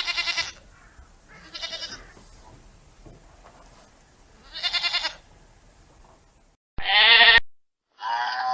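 Bleating farm animal: three quavering calls about two seconds apart. Near the end, after an abrupt cut, comes a short loud call with a wavering pitch, a moment of dead silence, and then a steady held call begins.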